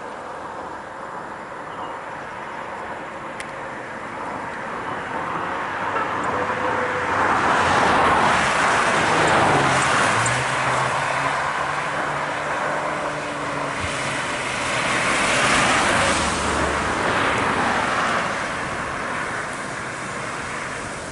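Hino 500 FM320TI truck heard from inside the cab while driving: the engine runs under steady road and tyre noise, which swells louder twice, about seven and fifteen seconds in.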